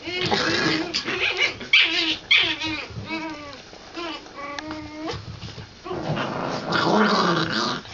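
Chihuahua puppies whimpering and yipping: many short, high-pitched cries that bend in pitch, with a rougher, noisier stretch near the end.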